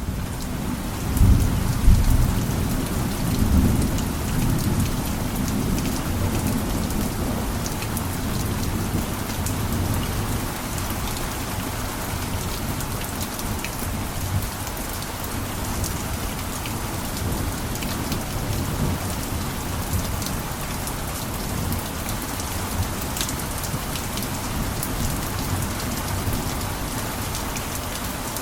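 Steady heavy rain pattering on a roof, with scattered drop ticks. A low rumble of thunder swells in the first few seconds, then eases into the rain.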